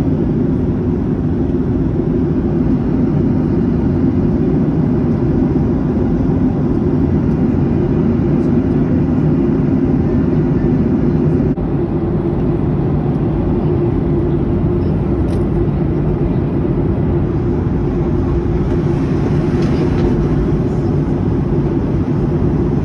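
Steady cabin noise of a jet airliner heard from a passenger seat: a dense, even rumble of engines and airflow.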